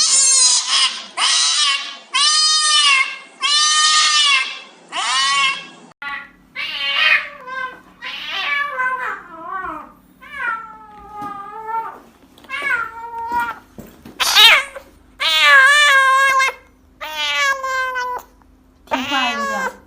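A cat yowling loudly again and again, long drawn-out calls about one a second at first, then shorter, more broken ones: an agitated cat protesting at being held for an injection.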